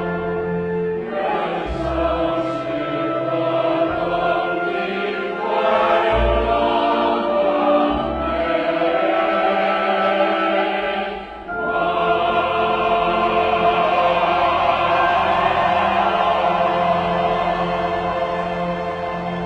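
A choir singing with long held notes. The sound dips briefly about eleven seconds in, then the voices come back in full.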